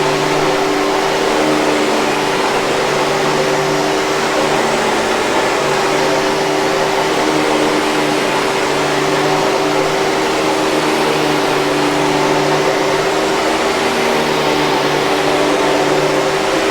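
Hoover 5000 Series canister vacuum cleaner running steadily: a continuous motor hum over the rush of air through the hose.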